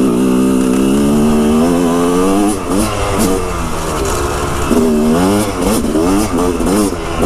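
Yamaha dirt bike engine running under way. It holds a steady pitch for the first couple of seconds, then the revs repeatedly drop and climb again as the throttle is rolled off and on.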